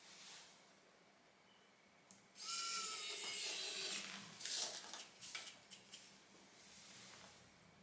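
A small electric precision screwdriver whirs for about a second and a half, driving a tiny screw into a MacBook Pro's case. A few light clicks follow as parts are handled.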